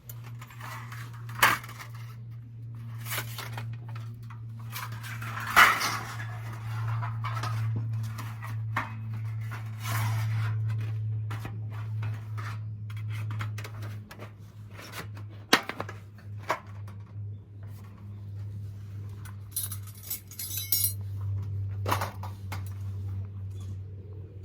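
Irregular clinks and knocks of camping utensils and gear being handled, with a steady low hum underneath.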